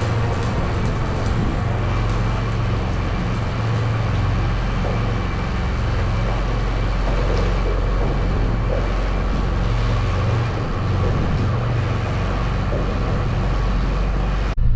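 Cummins-diesel-swapped Ram 1500 truck driving, a steady low engine and road rumble that breaks off abruptly near the end.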